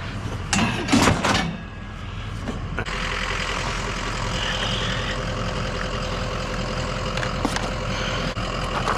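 A few clattering knocks of metal items being handled, then a motor vehicle engine running steadily close by from about three seconds in.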